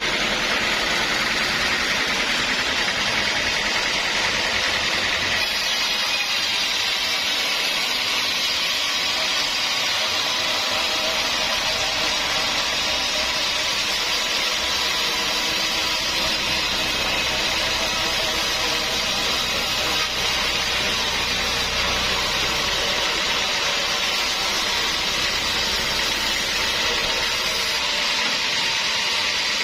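Sawmill running steadily for the whole stretch: an even, dense hiss of the saw with a motor hum underneath.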